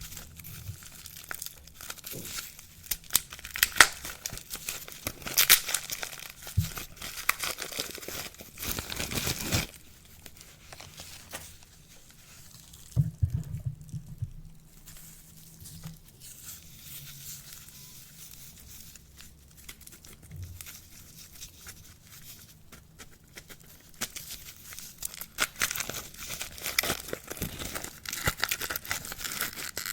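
Soap wrapping being crinkled and torn open by hand, in sharp crackling bursts. It goes quieter for a while in the middle, with a few soft knocks, then crinkles again near the end.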